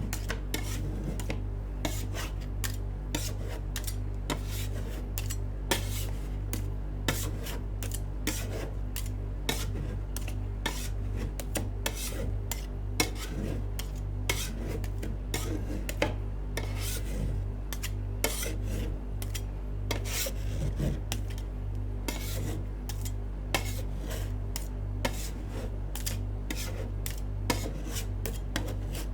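Metal spatulas tapping and scraping on a rolled-ice-cream cold plate, with many sharp clicks a second over continuous scraping.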